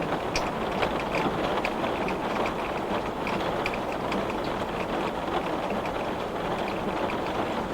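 Heavy rain beating on a glass pane: a steady dense hiss with many sharp drop ticks.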